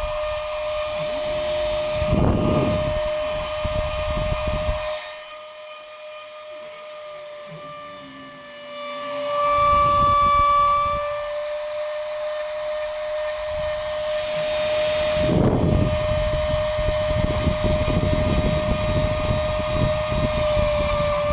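Homemade Arduino-controlled CNC machine running, with a steady whine at one pitch throughout. A noisier, rougher layer underneath fades for a few seconds in the middle, then returns louder.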